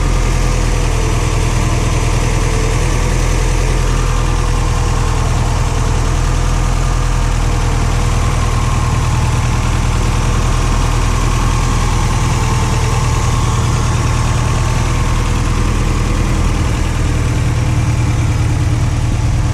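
Toyota pickup's stage 2 rebuilt 22RE 2.4-litre four-cylinder engine idling steadily through an LC Engineering header and MagnaFlow muffler, not yet fully warm and idling a little high.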